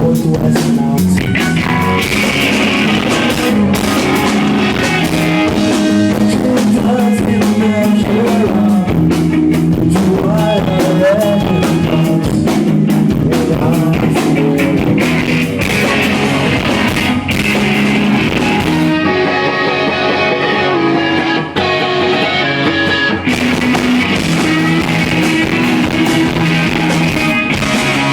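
Live rock band playing a song, guitars over a drum kit. Past the middle the drums drop out for a few seconds, leaving the guitars alone, before the full band comes back in.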